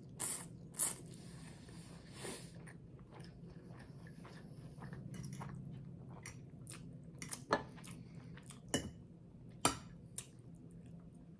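Close-up chewing of crunchy garlic bread, with a few sharp crunching bites in the first second or two and again toward the end, over a low steady hum.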